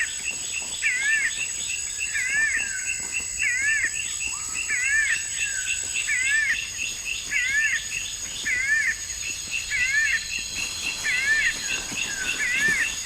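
Forest ambience: a bird repeating the same short up-and-down call about once a second, over a steady high insect drone and fast insect chirping.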